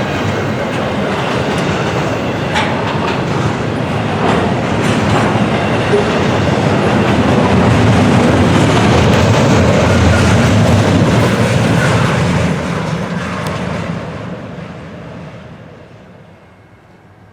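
Train rolling by on the rails: a steady rumble and rattle of wheels with a few sharp clicks, swelling and then fading away over the last few seconds as it moves off.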